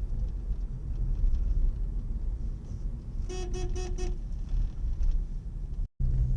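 A car horn tooted in four quick short beeps, about three seconds in, over a steady low rumble of a vehicle driving on the road.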